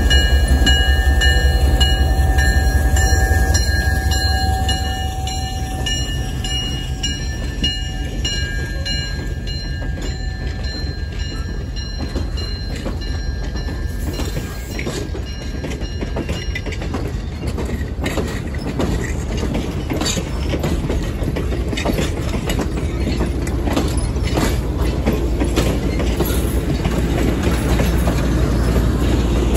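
Diesel locomotive passing close by with its engine running, loudest in the first few seconds. Then passenger coaches roll past, their wheels clicking over the rail joints.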